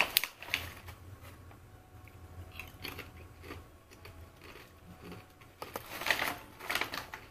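A person chewing crunchy rosemary pasta chips, with a sharp crack right at the start and irregular crunches that come thicker and louder near the end.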